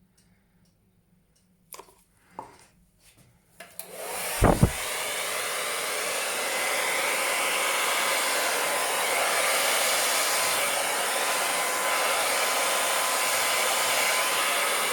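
A few light knocks, then a hair dryer switches on about four seconds in and runs steadily, blowing a strong rush of air with a faint steady whine. A brief low thump comes just after it starts.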